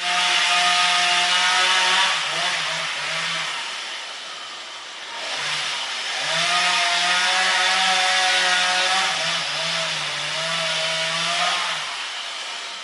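A motorised power saw running under load. It eases off in the middle, then cuts again with its pitch rising slightly.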